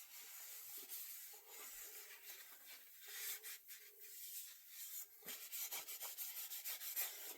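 Quiet, irregular rubbing strokes of a cloth working an oil finish into a wooden axe handle.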